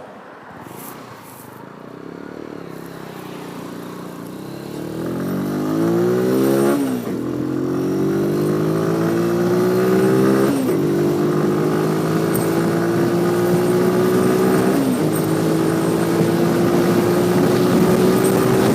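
Motorcycle engine accelerating through the gears, rising in pitch and getting louder, with a sharp drop in revs at each of three upshifts, about seven, ten and a half and fifteen seconds in.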